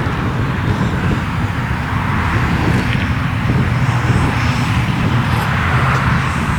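Electric ducted-fan RC model jet (F-4 Phantom) flying, a steady rushing noise.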